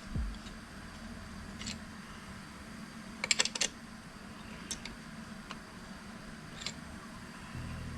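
Scattered light clicks and taps of small hand tools being handled on engine parts, with a quick cluster of several clicks about three seconds in, over a steady low hum.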